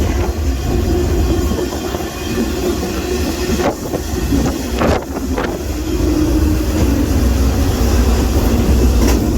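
Freight train rolling, heard from aboard a car: a loud, steady rumble of wheels on rail, with a few sharp metallic clanks near the middle.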